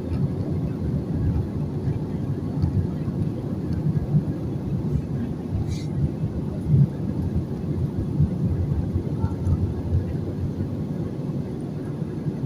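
Low, steady rumble of an airliner's engines and rushing air, heard from inside the passenger cabin.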